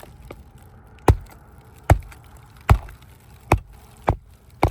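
Magnetic roofing hammer driving a roofing nail through asphalt shingle: six sharp blows, coming closer together toward the end, as the nail is set flush.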